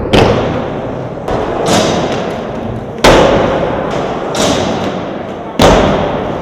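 Skateboards rolling and landing: about four hard board impacts, each followed by a ringing decay, with the rush of wheels rolling in between.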